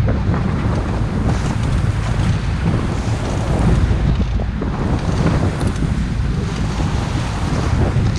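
Loud wind buffeting the microphone on a motorboat under way, with the steady rush of water along the hull beneath it.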